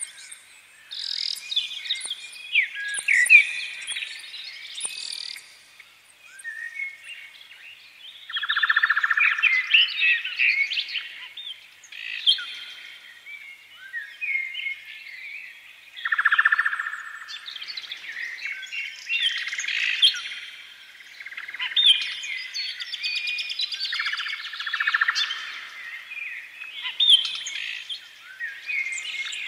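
Birds chirping and singing, several calling over one another in bursts of short, quick notes.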